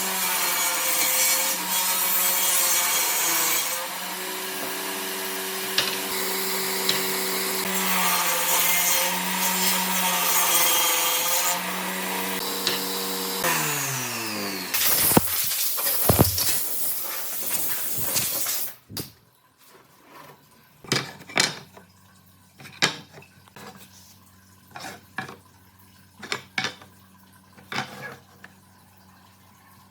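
Electric power tool working wood, its motor running steadily for about thirteen seconds before it winds down with a falling pitch. A few seconds later it goes quieter, with a string of separate knocks and taps.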